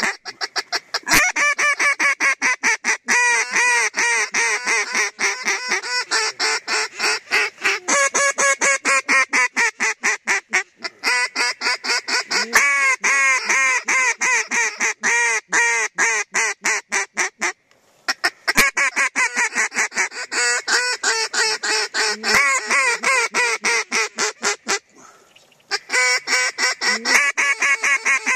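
Waterfowl calling: a rapid, unbroken run of quacking and honking, several calls a second, broken by two short pauses about two-thirds of the way through and near the end.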